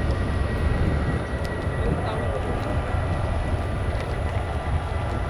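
Jet aircraft engines running with a steady low rumble and a faint high whine.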